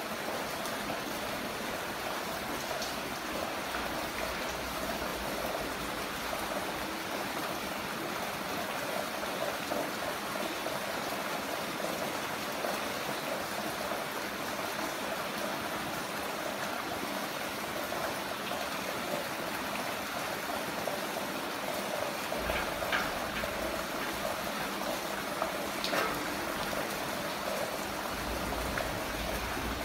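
Heavy rain falling steadily as a dense, even hiss, with a few sharper drips or splashes standing out near the end.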